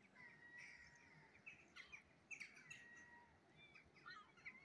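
Faint birds calling: many quick chirps, with two longer held notes of about a second each.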